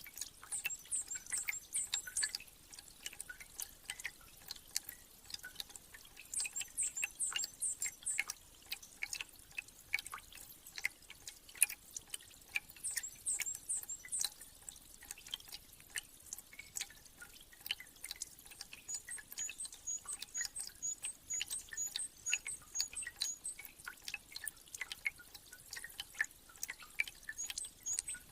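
Spring meltwater dripping, with many irregular drips. A small bird's high-pitched song comes in short bursts, and about two-thirds of the way through it turns into a steady run of rapid, evenly spaced high notes.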